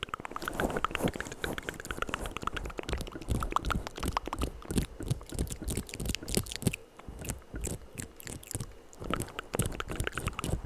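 ASMR mouth sounds: a rapid, continuous run of clicks and smacks from the lips and tongue.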